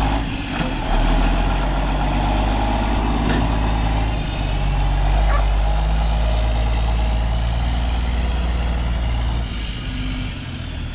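Heavy farm vehicle engine running steadily with a low, even drone that eases off slightly near the end.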